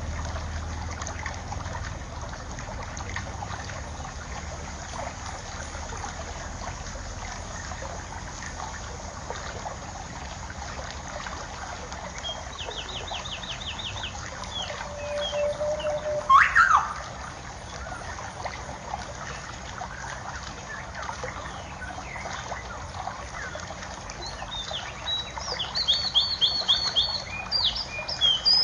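Water trickling steadily, with small birds chirping over it: a rapid high trill about halfway, a brief loud sweeping call a few seconds later, and repeated rapid high trills near the end.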